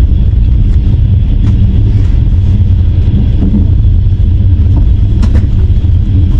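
Steady low rumble of a passenger train rolling out of a station, heard from inside the carriage, with a few faint clicks.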